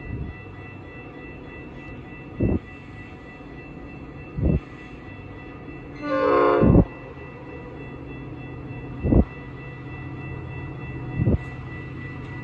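Metra commuter train approaching in the distance. Its horn gives one short blast about six seconds in, over a low steady rumble and a steady high ringing tone. Several brief low thumps come at uneven intervals.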